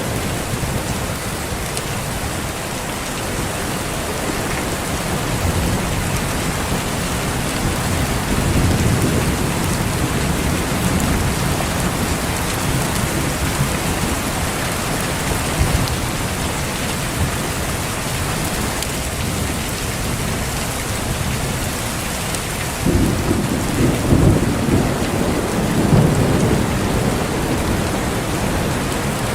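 Steady heavy rain with thunder rolling in low rumbles: one long rumble swells and fades in the first half, and a second, sharper peal breaks about 23 seconds in and rumbles for a few seconds.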